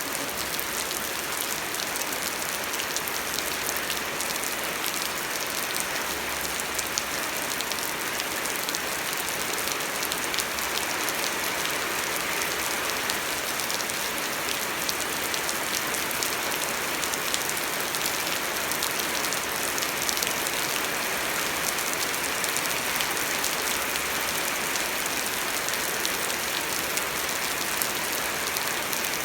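Steady rain falling: a continuous even hiss dotted with many small drop ticks.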